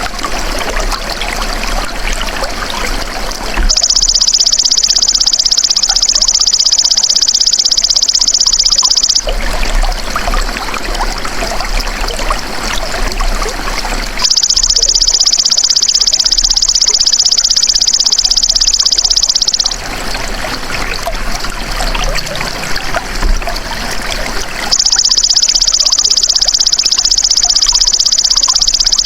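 Belalang emas ('golden grasshopper') insect calling: a loud, high-pitched, rapidly pulsed buzz lasting about five seconds. The call comes three times, about ten seconds apart, over a steady trickle of running water.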